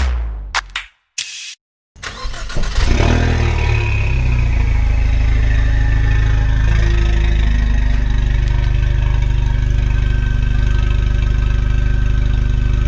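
Ford Mustang EcoBoost 2.3-litre turbocharged four-cylinder with a catless downpipe and muffler delete, starting up about two seconds in. The revs flare for a moment, then settle into a steady idle.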